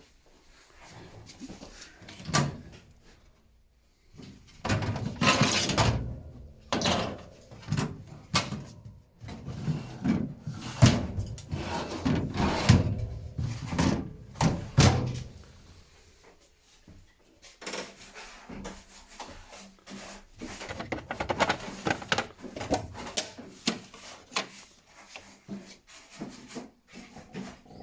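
Refrigerator doors and plastic crisper drawers and shelves being handled: irregular knocks, clicks and sliding scrapes as they are pulled out, pushed back and shut.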